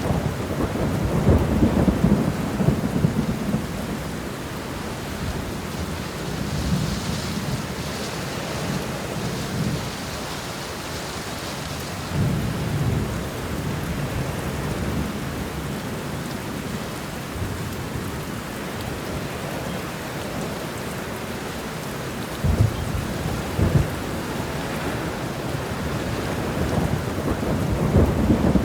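Steady rain with low rolling rumbles of thunder that swell and fade several times: one about a second in, another around twelve seconds, and a cluster in the last few seconds.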